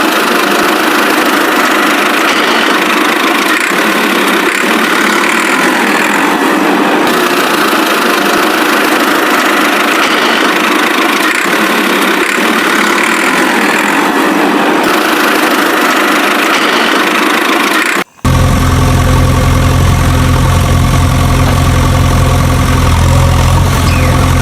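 Vehicle engine running steadily, with a thin sound lacking deep bass. After a brief dropout about 18 seconds in, a deeper engine idles with a steady low hum.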